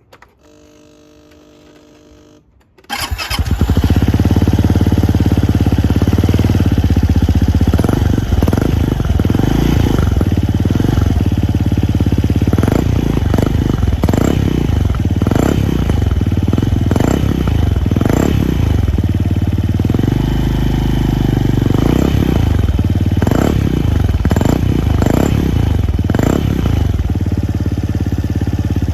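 Suzuki Address V125S scooter's single-cylinder four-stroke engine through an SP Tadao Pure Sport aftermarket muffler: a faint whine, then the engine catches about three seconds in and runs loudly at idle with repeated short throttle blips.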